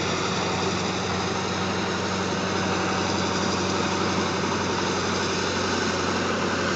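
Freight train rolling steadily past: the low hum of its diesel locomotives, with the steady noise of loaded freight cars' wheels running on the rails.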